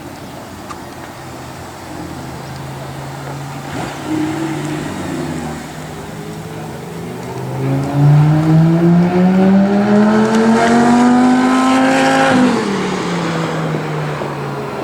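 Lamborghini Gallardo V10 engine running at steady revs, then, about seven and a half seconds in, pulling hard with its pitch climbing steadily for about five seconds. The revs then fall away quickly as the throttle is lifted.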